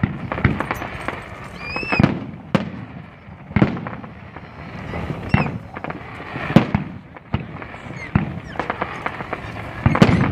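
Aerial firework shells bursting one after another: a sharp boom every second or two, with smaller pops in between.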